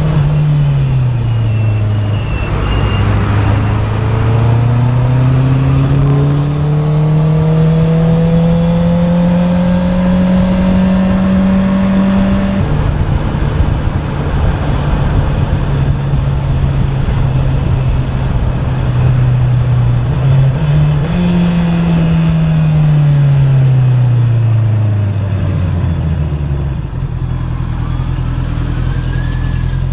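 Honda CB650R inline-four engine through an Akrapovic exhaust: a long climb in engine pitch that breaks off sharply about twelve seconds in, then a steady note, a short rise and a drop back to a low steady idle near the end.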